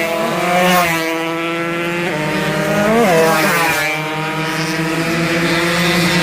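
Two-stroke racing motorcycle engines revving hard, several at once, their pitch rising and falling through the gears.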